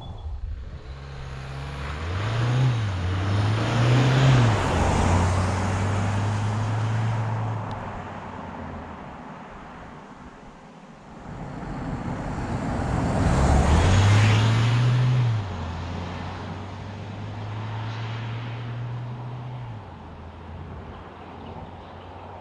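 2020 Renault Trafic's 2.0-litre four-cylinder turbo-diesel accelerating hard twice. Each time the engine note climbs, dips briefly and climbs again as the dual-clutch gearbox changes gear, and the second run cuts back suddenly.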